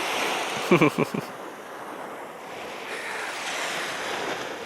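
Sea surf washing onto a beach, a wave's rush swelling in the second half and fading. A brief voice is heard about a second in.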